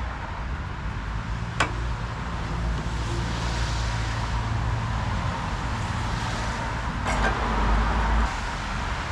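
An engine running steadily, with a single sharp knock about a second and a half in and a louder stretch near the end.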